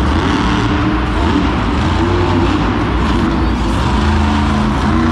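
Monster truck engine running hard in an arena, its pitch shifting up and down with the throttle, under a constant loud wash of echoing noise.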